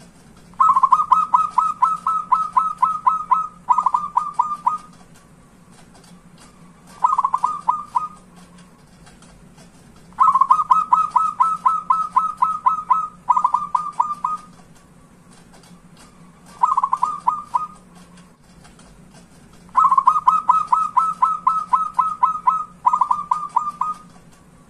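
Zebra dove (perkutut) cooing in bouts of rapid staccato notes, about four a second. Each bout is a run of about three seconds, followed by a shorter run; single short runs come between the bouts, and the pattern comes back every ten seconds or so. A steady low hum runs underneath.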